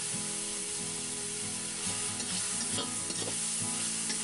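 Spiced onion-tomato masala sizzling in oil in a steel kadhai while a steel spatula stirs and scrapes it, with red chilli powder just added. A steady frying hiss runs throughout, with a few short scrapes of the spatula against the pan.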